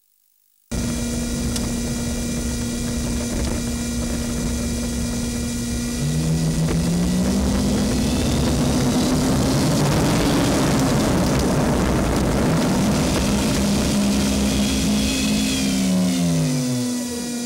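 Very small fan cooling the RC-car speed controller inside an electric foam model airliner, a steady whine that switches on about a second in. From about six seconds the model's electric motors spin up with a rising whine, run, and wind down near the end during a thrust-reverse test.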